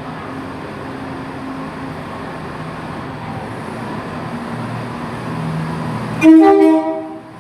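Diesel train running at a standstill, then near the end a loud train horn blast of about a second, a three-tone horn, cut off sharply.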